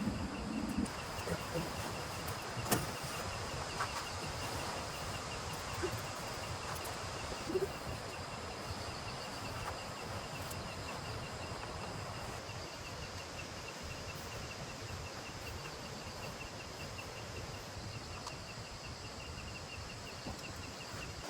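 Steady rain falling, with an insect calling in a fast, even pulse throughout and a few light clicks in the first few seconds.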